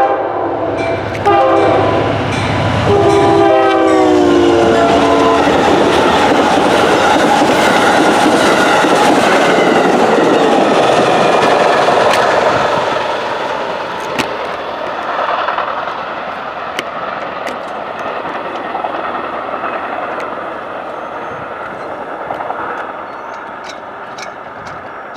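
Amtrak passenger train at a grade crossing, sounding its horn in long blasts in the first five seconds, the last blast dropping in pitch as the locomotive passes. Then comes the loud rush of the train going by, fading after about 13 seconds into a rumble of wheels on rail with scattered sharp clicks.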